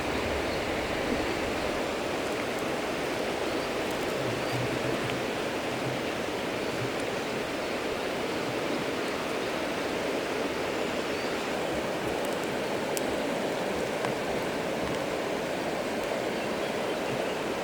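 Steady rushing noise of running water, unchanging throughout.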